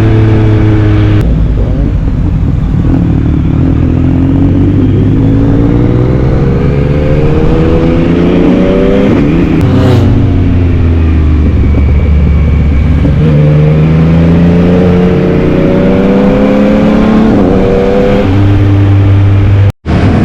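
2022 Yamaha MT-09's inline three-cylinder engine pulling hard through the gears, the revs climbing again and again and dropping at each upshift. The sound breaks off for an instant just before the end.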